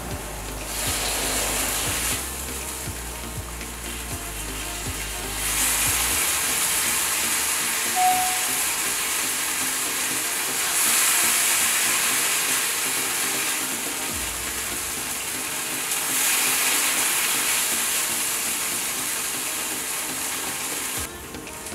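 Chopped kimchi with onion and garlic sizzling on a hot flat griddle as a silicone spatula stirs it. The hiss swells louder several times.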